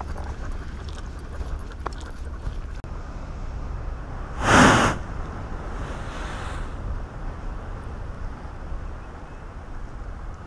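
A sea blowhole spouting: one loud, sudden whoosh of air and spray about four and a half seconds in, with a fainter second gust about a second and a half later, over a steady low rumble of surf and wind on the microphone.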